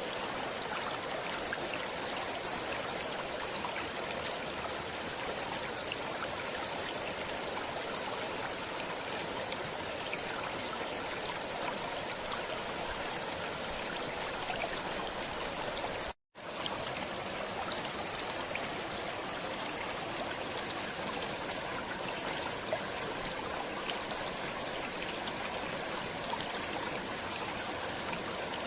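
Running stream water flowing and trickling steadily. The sound drops out to silence for a split second about sixteen seconds in.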